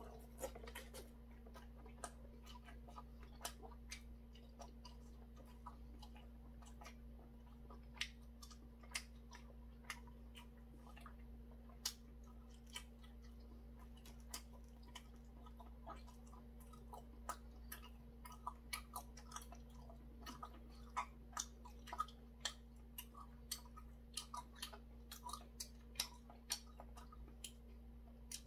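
A person chewing and eating boiled chicken with chopsticks: faint wet mouth sounds with many short sharp clicks at irregular intervals, coming more often in the second half, over a steady low hum.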